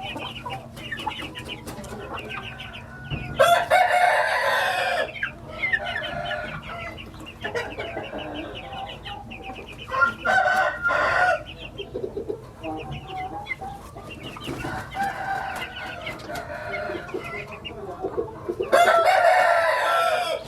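Gamefowl roosters crowing in a yard full of clucking chickens: two loud crows of about a second and a half each, one a few seconds in and one near the end, with shorter calls between.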